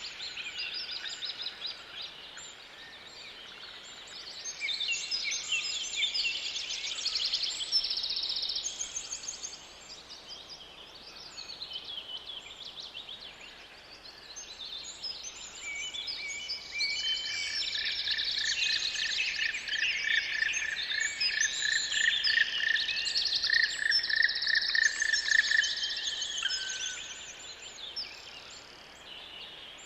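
Several songbirds singing together in a forest chorus of overlapping chirps and short phrases over a faint steady hiss. Past the middle, one bird adds a fast, evenly repeated trill in a lower pitch that runs for several seconds.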